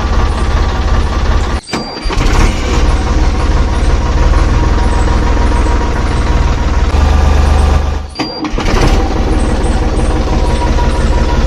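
Homemade mini tractor's engine running steadily with a low, rhythmic pulse. It cuts out briefly twice and picks up again.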